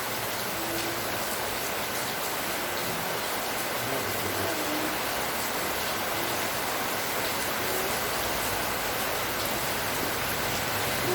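Steady rainfall, an even hiss of rain falling.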